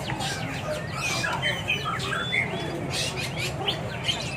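Many caged songbirds chirping, trilling and whistling at once, with quick repeated notes and short whistled glides, over a steady low hum.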